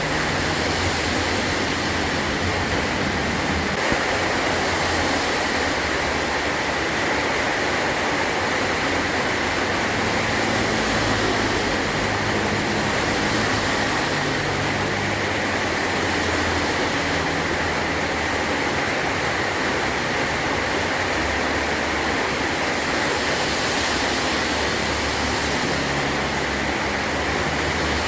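Heavy rain drumming steadily on a metal roof, an even unbroken downpour.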